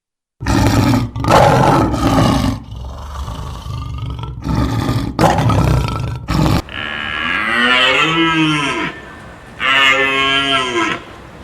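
A string of short, rough animal calls cut one after another, then a cow mooing twice in long calls that rise and fall in pitch, with a third moo starting near the end.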